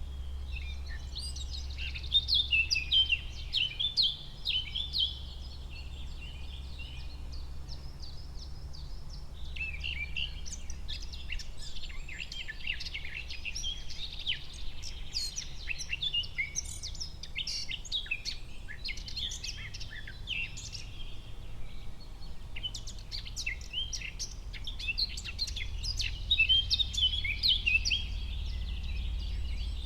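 Several birds singing and chirping together in a forest, quick overlapping calls that come in busy flurries, over a steady low rumble.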